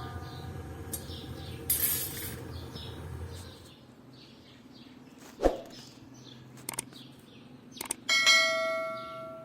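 A low hum that stops a few seconds in, then a knock and a couple of clicks. Near the end a piece of metal is struck and rings with a clear tone that fades over about a second.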